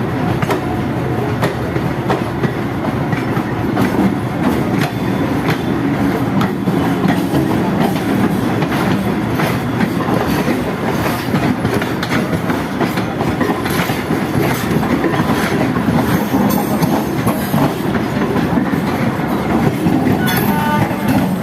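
Azimganj–Bandel local passenger train running past at speed, its wheels clattering steadily over the rail joints.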